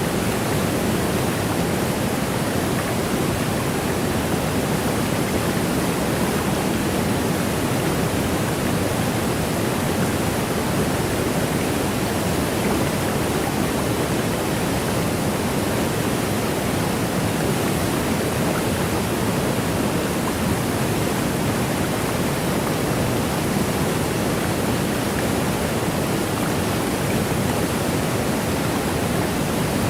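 Waterfall: a steady, unbroken rush of falling water, fuller in the low tones, holding an even level throughout.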